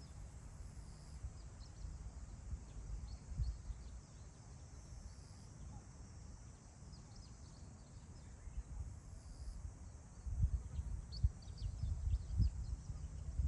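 Wind gusting across open grassland, rumbling on the microphone and blowing harder about ten seconds in, with wild birds calling in short, high chirps throughout.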